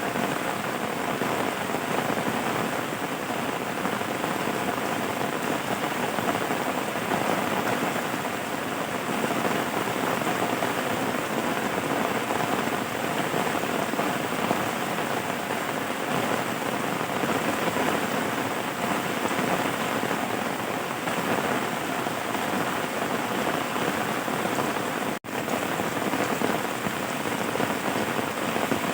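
Steady, dense rain falling on a surface: an even hiss of drops. It cuts out for an instant near the end.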